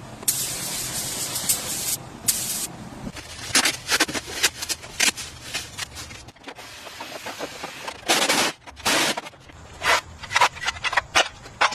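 Long hissing sprays alternating with runs of short scraping and clicking strokes, as in restoration work on a car body: a spray burst for about two seconds, another brief one, a quick series of scrapes, then another longer spray followed by more sharp strokes near the end.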